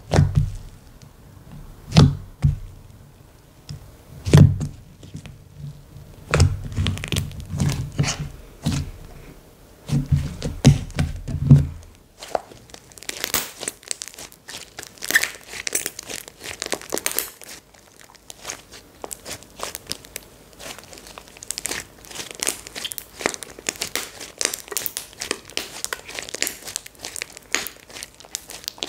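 Hands squishing, stretching and pressing slime, giving sharp pops and clicks. About twelve seconds in, this turns into a dense crinkly crackling as the slime is worked.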